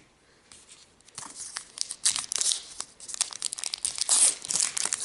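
A trading card pack's wrapper being torn open and crinkled in the hands: after about a second of quiet, a dense run of sharp crackling and ripping.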